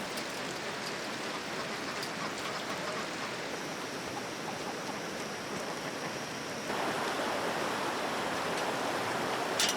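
Steady hiss of falling or running water, with a few faint clicks; it grows louder and brighter about two-thirds of the way through.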